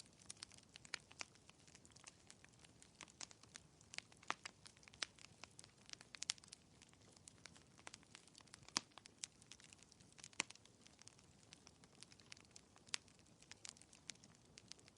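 Fireplace fire crackling softly, with irregular small pops over a faint low hiss. Two sharper pops come near the middle.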